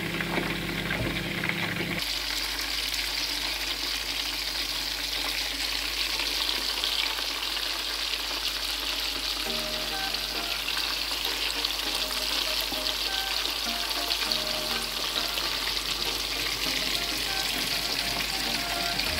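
Hot oil sizzling steadily as kebab patties fry in a pan.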